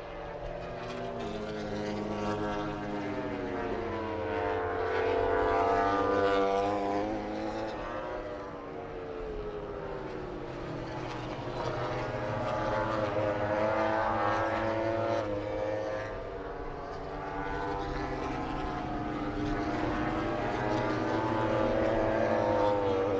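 MotoGP racing motorcycle engines running on track, rising and falling in pitch as they rev and pass, swelling in loudness about every eight seconds.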